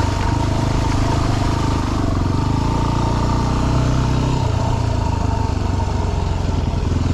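Dirt bike engine running steadily at low revs, its note shifting slightly about four seconds in.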